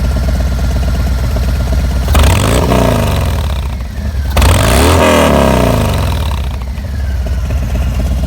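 Harley-Davidson Fat Bob's Milwaukee-Eight 114 V-twin through a Bassani Road Rage 3 exhaust, idling with a lumpy pulse, then blipped twice about two seconds apart, each rev climbing and falling back to idle.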